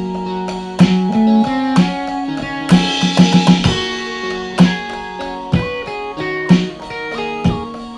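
Live instrumental jam of electric guitar, synth and drum kit: held, shifting guitar and synth notes over sparse drum hits about once a second, with a quick run of drum strokes and a cymbal wash about three seconds in.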